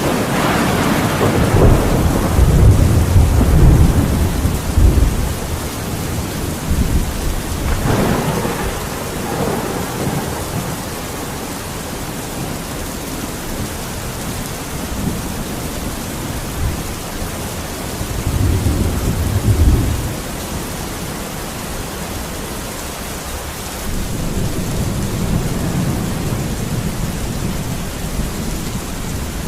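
Steady heavy rain with repeated rolls of thunder: a loud rumbling roll in the first few seconds, a sharper crack about eight seconds in, and further lower rumbles around two-thirds of the way through and near the end.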